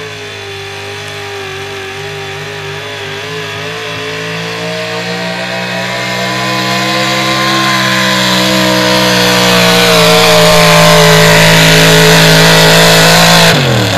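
Modified gas street pulling truck's engine held at high revs under load, growing steadily louder. Near the end the throttle is let off and the revs drop away quickly.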